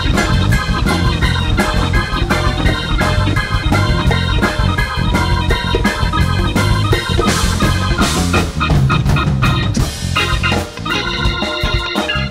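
Live big-band jazz: an organ-toned keyboard holding chords over a steady drum beat.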